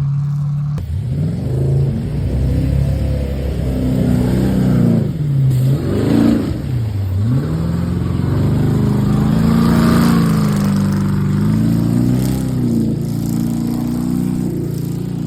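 Sherp all-terrain vehicle's diesel engine revving under load, its pitch rising and falling again and again, with deep drops in the middle before it settles into a steadier run.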